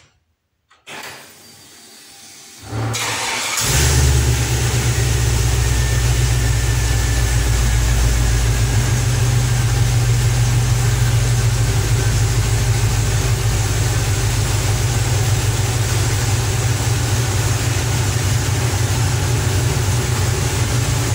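GM fuel-injected engine with an electronic throttle body being started: the starter cranks briefly, the engine catches about four seconds in and settles into a steady idle. This is the first start after the throttle body was refitted with a new gasket and the throttle position sensor plugged back in, to cure a recurring P1516 throttle-position fault, and it starts and runs cleanly.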